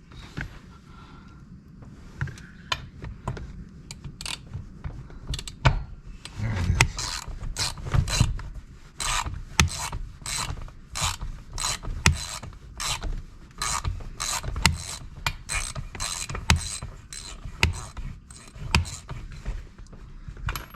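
Ratchet driver turning a fastener on a Stihl MS390 chainsaw: a run of short rasping clicks that starts about six seconds in and settles at about two strokes a second.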